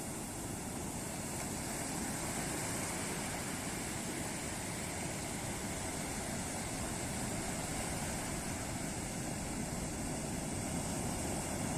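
Ocean surf breaking on a beach: a steady rushing wash of waves that swells slightly about two seconds in and again near the end.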